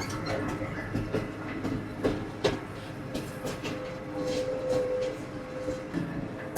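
Tractor running while driving, with rattling clicks and knocks and a steady whine that grows stronger about four seconds in.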